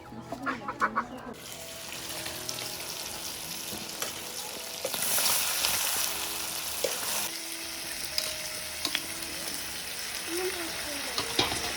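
Food frying in a hot pan with a steady sizzle, louder for a couple of seconds in the middle, while a utensil stirs it with occasional clicks against the pan.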